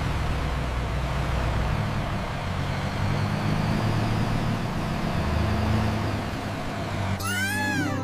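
Steady vehicle-like rumble with a hiss and low shifting drones. About seven seconds in, high-pitched calls that rise and fall in pitch cut in.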